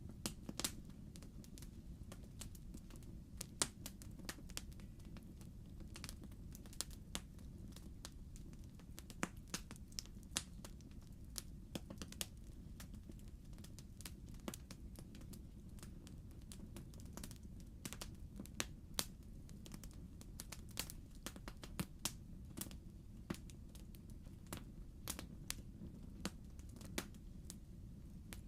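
Logs burning in a fireplace, crackling: irregular sharp pops and snaps, several a second at times, over a low steady rumble of the fire.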